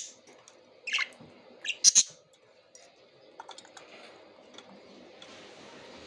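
Pet budgerigars giving a few short, sharp chirps: the loudest right at the start and about two seconds in, with another about a second in. Fainter scattered clicks and ticks follow.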